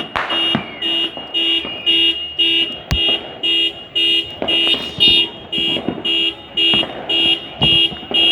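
A car alarm beeping steadily about twice a second, a two-tone electronic beep, with firework bangs and crackles going off through it and one sharp bang about three seconds in.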